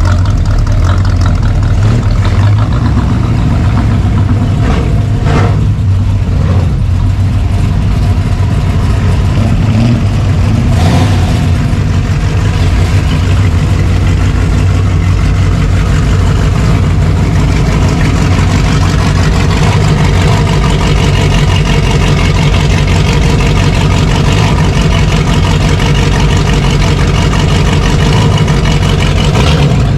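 Car engine running close by, a steady low rumble at idle.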